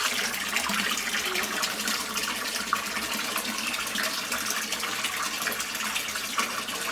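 GE Ecoperformance 15 kg washing machine pumping out its wash water before the spin cycle, a steady gush of water running out.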